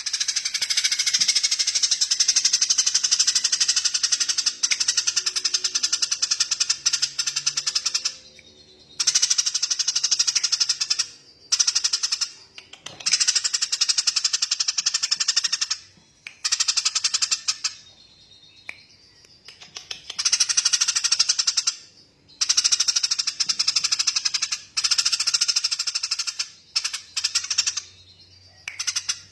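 Small bird's rapid, high-pitched trilling calls, delivered as fast rattling strings of notes in bursts of one to four seconds with short pauses between them.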